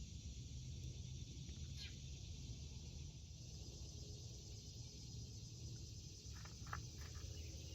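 Faint steady insect chorus, a continuous high shrill drone, over a low rumble, with a few short clicks and rustles of plant handling about six seconds in.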